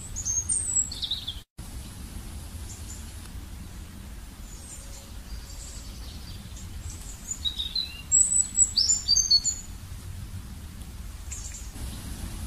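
Small birds chirping in quick high notes, in two short bouts, about a second in and again around eight to nine seconds in, over a steady low background rumble. The sound cuts out completely for an instant about a second and a half in.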